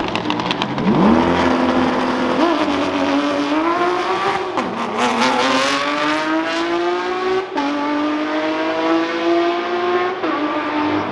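Lamborghini Aventador SVJ's V12 with a Novitec exhaust accelerating hard from a launch. The engine note jumps up about a second in, then climbs through the gears, with sharp upshift breaks about four and a half and seven and a half seconds in. It settles to a steadier, lower note near the end.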